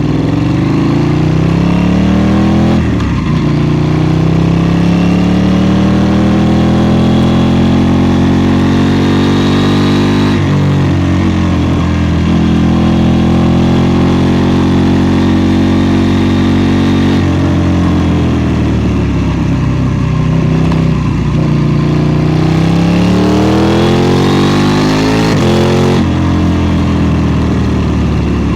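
KTM 790 Duke's parallel-twin engine under hard riding. The pitch climbs in long sweeps and drops sharply at each gear change, about 3, 10 and 17 seconds in and again near the end. Around 18 to 22 seconds the pitch falls as the throttle is rolled off, then it rises again.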